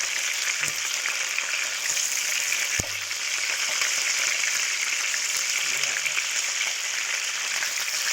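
Food frying in a pan: a steady sizzle with fine crackling, and a single sharp knock a little under three seconds in.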